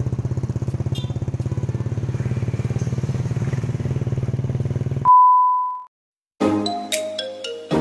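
Small motorcycle engine running steadily with a fast, even pulse. About five seconds in it cuts off abruptly into a single steady beep, then after a short silence a plucked, bell-like music melody begins.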